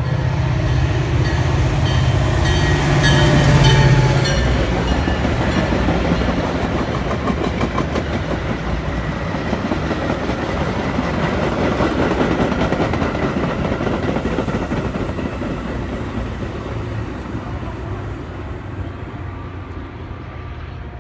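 Metra commuter train passing at speed. The diesel locomotive's engine hums loudly for the first four seconds or so, then the coaches' wheels clatter over the rail joints, slowly fading as the train moves away.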